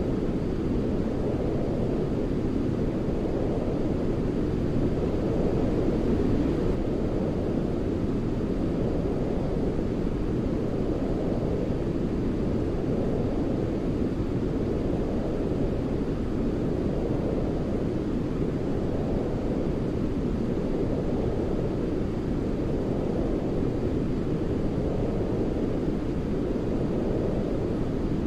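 Steady sleep noise of the white-noise kind, deep and rumbling with most of its weight in the low end, like brown noise. Its upper edge swells gently and slowly, about once every three to four seconds.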